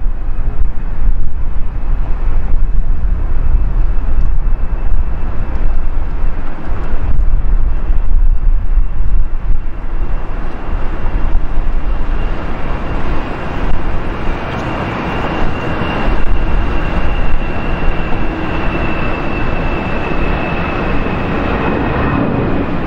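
Jet airliner engines passing by, a loud steady rumble with a high whine that comes up about halfway through and grows stronger toward the end.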